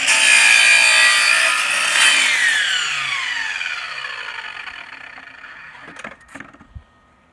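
Chop saw cutting through a composite decking board. About two seconds in the motor is released, and the blade spins down with a falling whine that fades away over several seconds. A couple of knocks come near the end.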